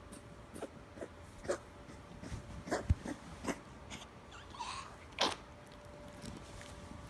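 Chihuahua–Miniature Pinscher mix coughing and hacking in a string of short, irregular bursts, the loudest about three and five seconds in: the harsh cough of kennel cough.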